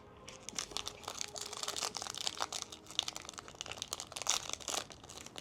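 Crinkling and crackling of a plastic trading-card pack wrapper being torn open and handled, a dense run of small crackles with a few sharper snaps.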